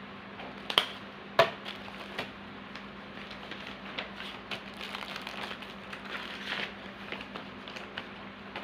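Hands packing small bird leg rings: light clicks and plastic crinkling, with two sharper clicks in the first second and a half, over a steady low hum.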